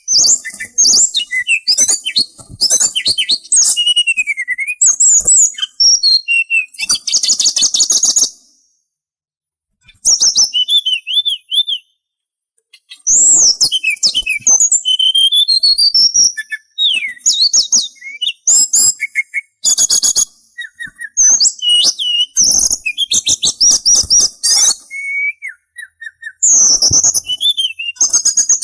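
A songbird that Indonesian bird-keepers call sulingan sings a fast, varied run of high whistled notes, slurs and trills. The song pauses for a few seconds about nine seconds in, then resumes.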